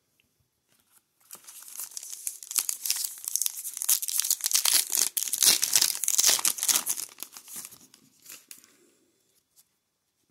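Foil wrapper of a trading-card pack being torn open and crinkled in the hands, a dense crackling that builds for a few seconds and then fades.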